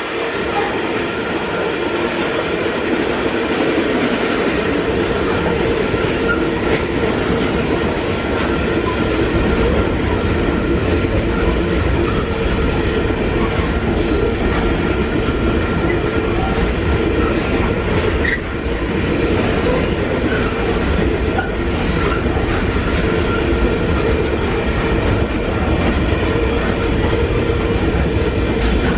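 Long freight train of hopper wagons rolling past: a continuous, steady rumble of wheels on rail, with a few faint steady tones running through it.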